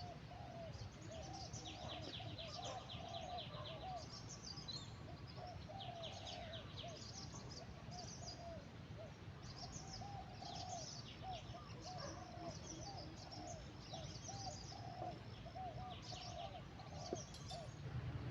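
Several wild birds calling at once: a long run of short, arched, mid-pitched notes, several a second, over higher chirps and a rapid high trill, with a steady low hum underneath.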